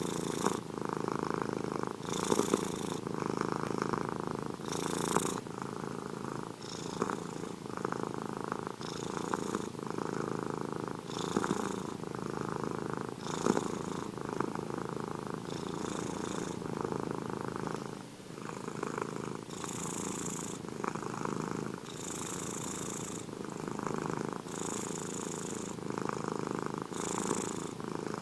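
Domestic cat purring close up, continuous, with a soft breathy hiss recurring about every two seconds.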